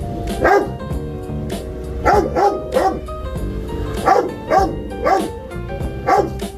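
A dog barking in short clusters of two or three sharp barks, about eight in all, over background music with held notes.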